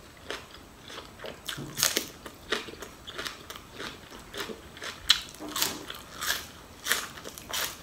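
Close-up crunchy chewing and biting by a person eating raw spring onion stalks, crisp crunches about twice a second.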